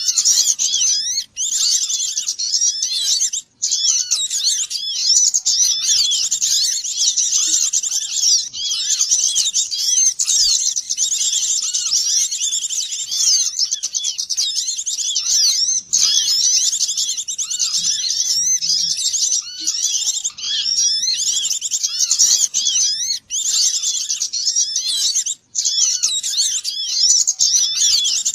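A dense chorus of many small songbirds chirping and twittering over one another without pause, a recorded lure call for attracting small birds. It cuts out for an instant a few times.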